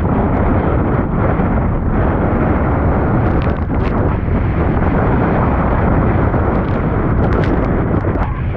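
Tropical-storm wind buffeting the microphone: a loud, unbroken, rumbling roar with a few faint ticks.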